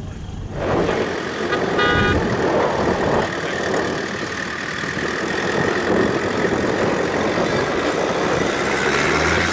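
Off-road 4x4's engine running hard under load on a climb, coming in loud about half a second in. A brief high, tooting tone sounds about two seconds in.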